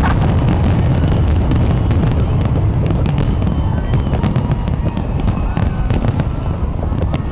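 Fireworks bursting and crackling in quick succession, many sharp pops and bangs, over a steady low rumble.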